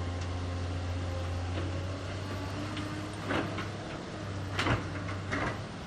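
Heavy earthmoving machine's diesel engine running steadily, with three sharp knocks a little past halfway and toward the end.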